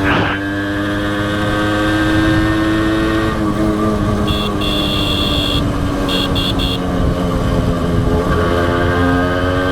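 Honda H100S motorcycle's single-cylinder four-stroke engine under way, its pitch rising slowly as it pulls, then easing off about three seconds in and picking up again near the end. In between, a horn beeps: one long beep followed by several short ones.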